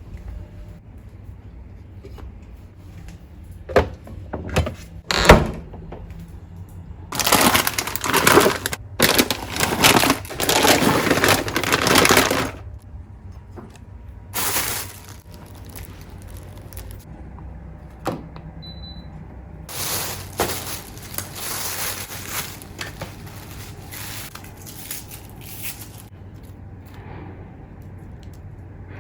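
Household handling sounds: a few sharp knocks, then several seconds of loud rustling, with shorter patches of rustling later on and a brief faint beep about two-thirds of the way through.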